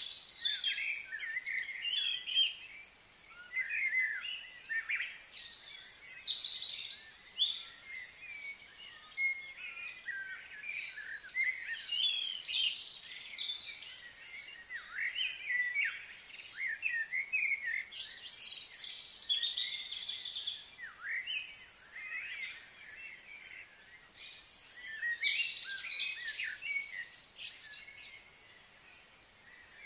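Several birds chirping and singing, a busy run of short high calls with brief lulls, over a faint steady hiss.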